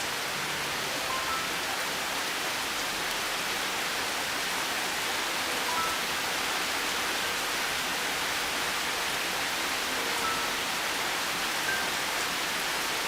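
Steady rain, an even hiss, with a few soft, sparse piano notes sounding over it now and then.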